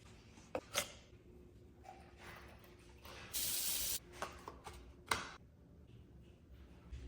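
A single hiss of spray lasting under a second, about three seconds in, with scattered clicks and knocks around it from handling things.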